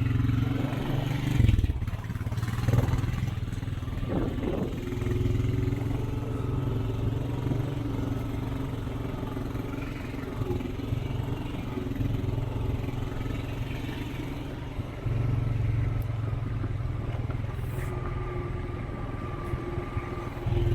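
Off-road vehicle's engine running steadily while driving a woodland trail, with some clatter over the rough ground. It drops off briefly about a second and a half in and gets louder about fifteen seconds in.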